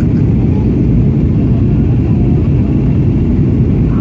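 Boeing 737-800 in flight, a steady, even low rumble of airflow and engines.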